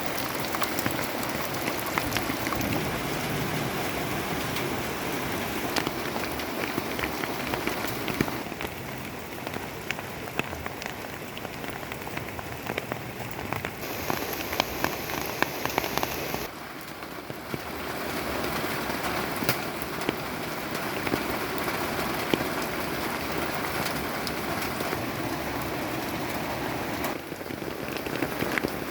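Heavy rain pouring down, a dense steady hiss with many sharp drop hits. It shifts suddenly in level and tone a few times.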